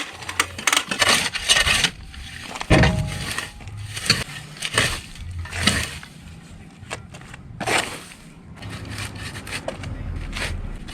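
A run of sharp knocks and clatters with scraping in between, as of objects being handled and set down, thickest in the first few seconds and again near the end.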